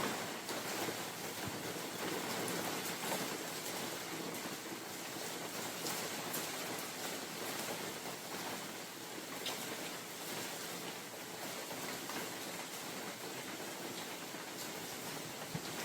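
Steady rain falling in a forest, an even hiss with scattered louder individual drops.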